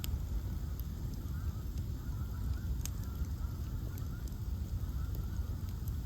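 Bonfire of ash logs burning with a low steady rumble and scattered sharp crackles and pops, a few of them distinct snaps. A faint wavering high squeal comes and goes.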